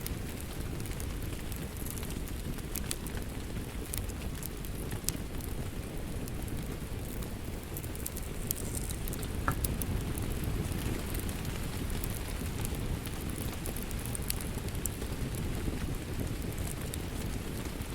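Steady rain ambience mixed with a crackling wood fire, with scattered sharp crackles and pops over a continuous low rumble of rainfall.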